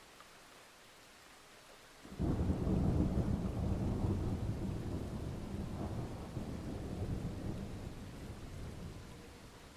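A thunderclap: a sudden deep rumble about two seconds in that rolls on and slowly fades over several seconds, over a faint steady hiss.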